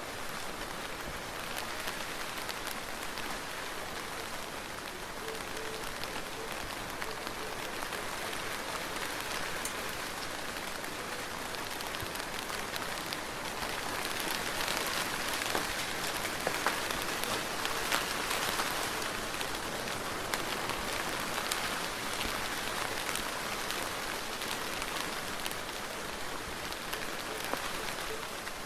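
Soft, steady rain falling, with many small separate drop ticks in the hiss; it swells slightly louder about halfway through.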